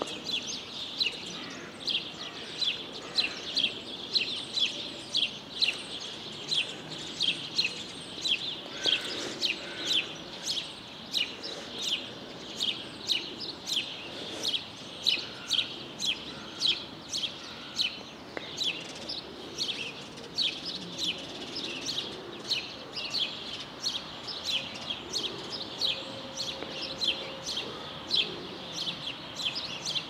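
Small songbirds chirping: short, high chirps repeat about twice a second without a break, over a faint low background hum.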